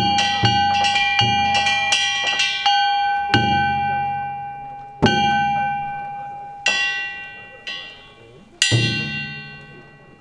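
Danjiri float's drum and hand gongs (kane) struck together, a quick run of strokes for the first three seconds, then single strokes a second or two apart, each gong stroke left ringing as it fades.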